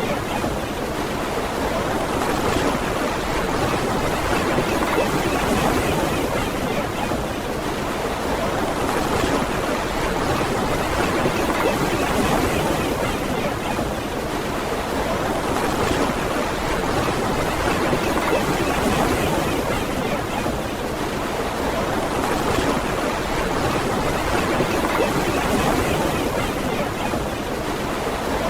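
Ocean surf washing on a beach in a steady hiss, swelling and easing every few seconds.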